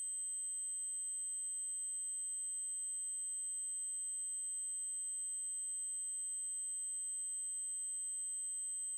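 Steady, high-pitched 8192 Hz triangle-wave tone, one unbroken electronic pitch with much fainter steady tones beneath it.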